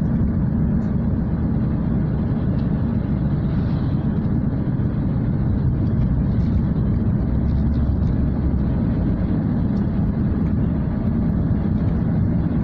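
Steady road and engine rumble heard from inside a car's cabin while it is being driven.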